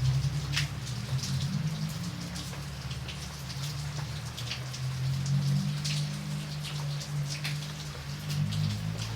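Steady rain with many individual drops striking a surface close by, over a low steady rumble.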